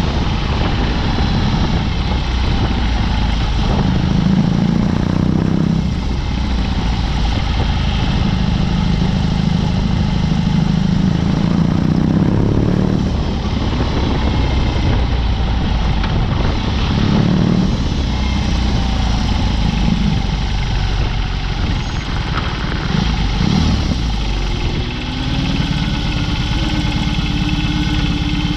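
BMW R18's 1.8-litre boxer twin running through an open Dr. Jekill & Mr. Hyde exhaust while being ridden, its note swelling and easing as the throttle opens and closes. Near the end the pitch rises and then holds steady.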